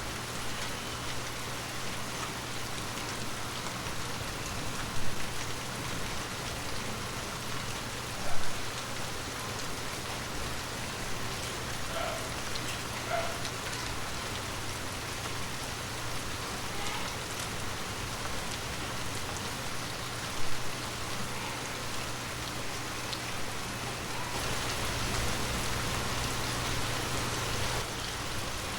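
Heavy rain falling steadily, with three short louder drop impacts, and growing a little heavier near the end.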